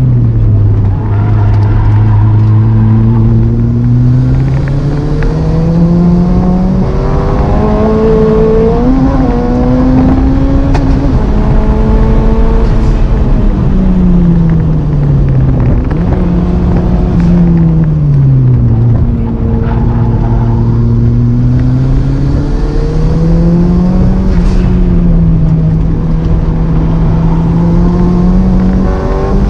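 Honda CRX's four-cylinder engine heard from inside the cabin on a race lap. Its pitch climbs under hard acceleration and drops back through braking and gear changes several times, over steady road and wind noise.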